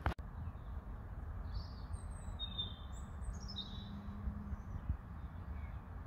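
Small birds giving a string of short, high chirps over a steady low background rumble.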